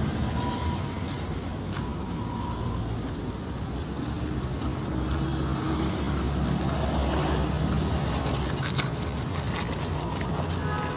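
Steady low rumble of a motor vehicle's engine and tyre noise.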